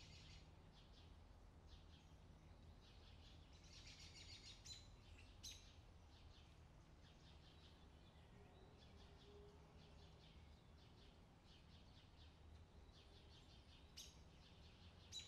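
Near silence, with faint bird chirps a few seconds in and again near the end.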